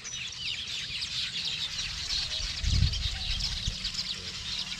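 Many birds chirping together in a dense, overlapping chorus of short high calls. A brief low rumble on the microphone comes about two and a half seconds in.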